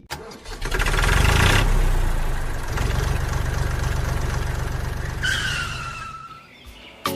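A small motor running with a rapid, even pulse, fading away after about five seconds, with a falling whistle-like tone near the end.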